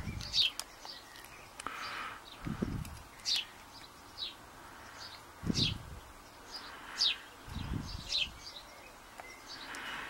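Small birds chirping, short high chirps about every second. Three short low sounds are heard at a few seconds' spacing.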